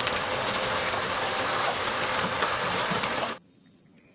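Water spraying or running over plastic toys as they are washed, a steady hiss with small pattering clicks that stops abruptly near the end.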